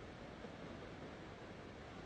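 Faint, steady wash of gentle Pacific Ocean surf, with no single wave breaking out from it.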